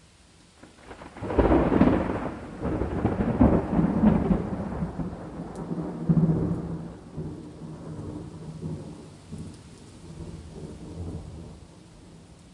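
A peal of thunder breaks about a second in and rumbles on in several loud rolling surges. It slowly dies away over the last few seconds, over a steady rain.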